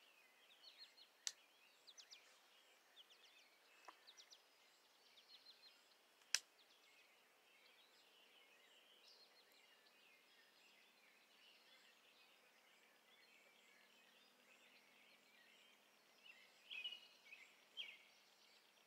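Faint songbirds chirping, with a louder cluster of chirps near the end. Two sharp clicks cut through, about a second in and about six seconds in; the second is the loudest sound.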